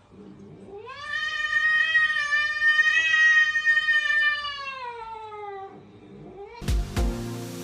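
A domestic cat giving one long, drawn-out yowl that rises at the start, holds, and falls away at the end. A sudden loud burst of noise comes near the end.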